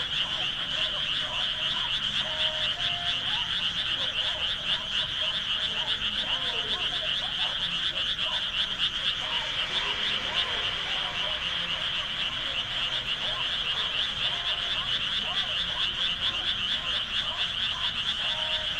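A dense chorus of many frogs calling together, a steady, fast-pulsing high trill that never lets up.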